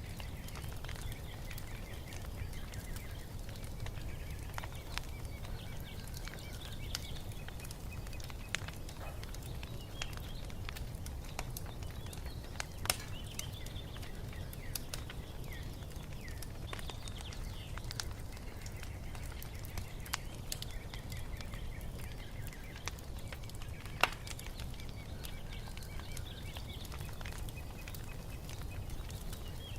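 Wood fire crackling, with scattered sharp pops (two loudest about 13 and 24 seconds in) over a steady low rumble, while small birds chirp faintly in the background.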